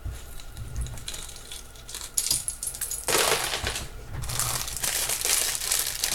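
Jewelry packaging being handled: light clicks and clinks of small jewelry pieces, then plastic bags crinkling steadily from about three seconds in.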